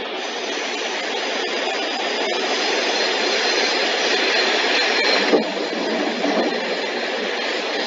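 MacNeil car wash tunnel equipment working over a car: a steady rushing noise of water spray and brushes, with a few sharp knocks.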